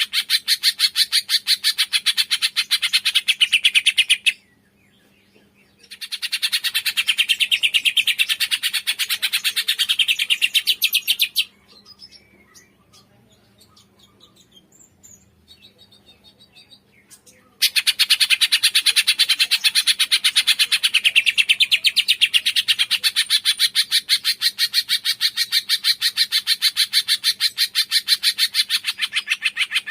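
A cungkok songbird chirping in a fast, unbroken run of many short high notes a second. The run breaks off for about a second and a half some four seconds in. It gives way to faint scattered calls for about six seconds in the middle, then starts again.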